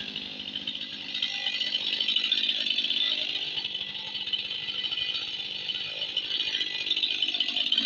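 Two-stroke chainsaw running steadily at a constant speed.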